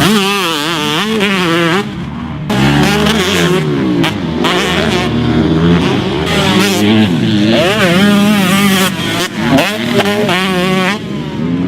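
Husqvarna TC125 single-cylinder 125cc two-stroke motocross engine being ridden hard, its pitch rising and falling again and again as the throttle is worked, with a brief drop off the throttle about two seconds in.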